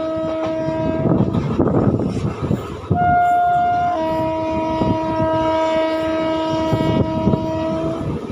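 Horn of a WAP-7 electric locomotive heard from a coach of the moving train: a long blast that stops about a second in, a short higher note about three seconds in, then a long steady blast lasting about four seconds. The wheels rumble on the rails underneath.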